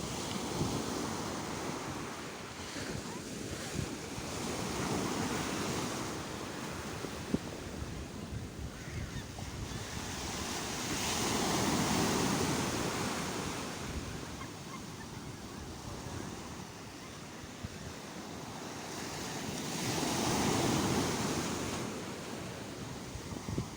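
Sea waves breaking on a shore. The surf swells and falls back in slow surges about every eight seconds, with the strongest swells near the middle and near the end.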